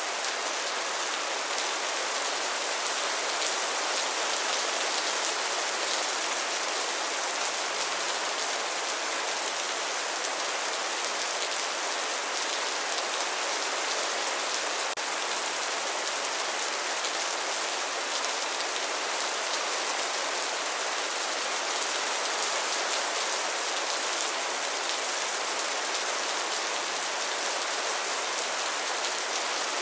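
Steady rain falling, with many fine drop patters on a surface and no let-up.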